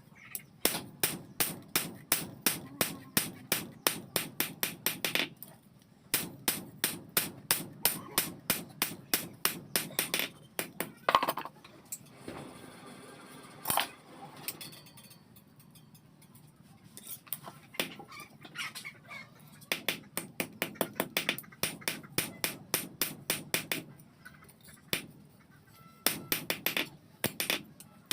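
Hammer blows on steel at an anvil, forging work, struck rapidly at about four blows a second in runs of several seconds with short pauses between them.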